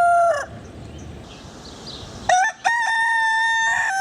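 Rooster crowing: the end of one crow cuts off about half a second in, and after a short pause a second long crow begins a little past two seconds in.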